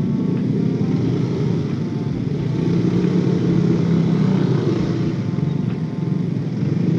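Motorcycle engine running steadily while riding, with its low note swelling a little in the middle.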